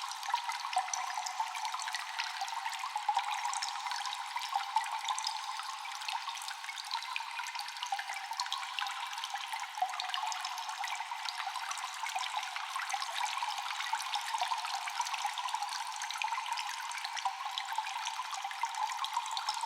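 Water dripping and trickling in a cave with echo: a dense scatter of quick drips over a continuous trickle of running water.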